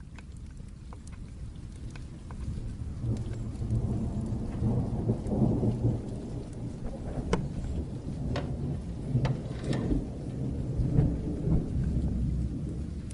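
Distant thunder rumbling low, swelling from about two and a half seconds in and rolling on, over steady rain, with scattered sharp crackles from a fire.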